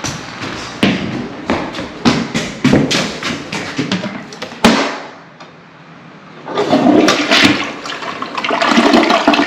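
A newly installed toilet being flushed. A run of sharp knocks in the first half, then a loud rush of water from about two-thirds of the way in, growing to the end.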